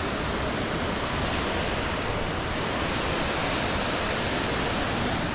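Steady rush of fast-flowing creek water, an even, unbroken roar.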